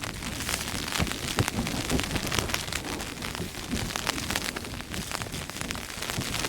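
Heavy rain drumming on a Hilleberg tent's flysheet, heard from inside, in a dense patter of irregular taps, with the wind-blown fabric flapping.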